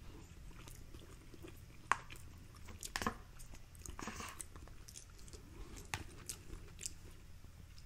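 Faint mouth sounds of a person chewing food, with scattered soft wet clicks.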